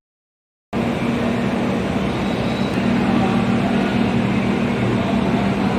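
Steady mechanical hum and rumble of a Shinkansen station platform, with a constant low drone under a wash of noise. It starts suddenly a little under a second in.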